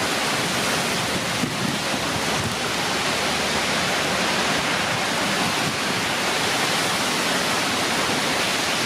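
Severe thunderstorm squall-line winds blowing hard, a loud steady rush of noise.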